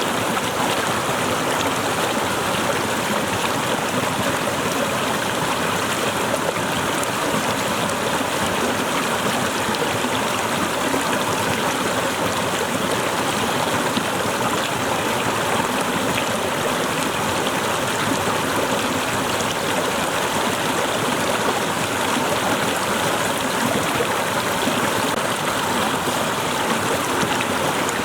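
Waterfall running, a steady, even splash of falling water that does not change in level.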